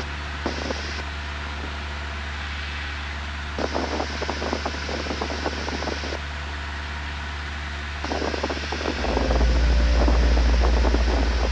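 Steady drone of a 1977 Cessna 172N's engine heard in the cockpit through the headset intercom, with two stretches of crackling noise and a louder low drone from about nine seconds in.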